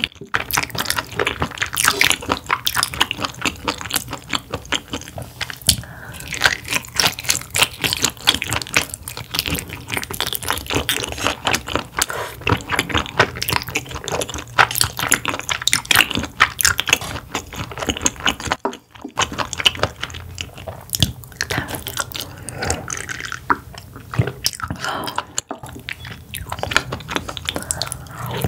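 Close-miked chewing of sea bass: wet mouth sounds with many quick, irregular clicks and smacks.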